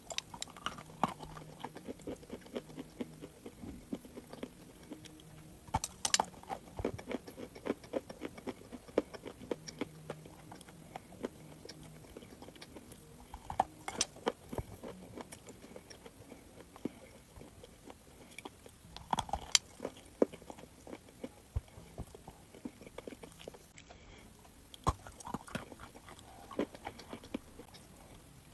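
Crunchy chalk being bitten and chewed: a sharp bite about every five to eight seconds, each followed by a run of crunching and smaller crackles.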